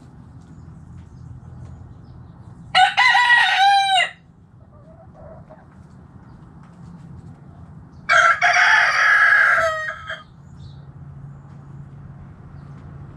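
A rooster crowing twice, a shorter crow about three seconds in and a longer one of about two seconds around the eight-second mark.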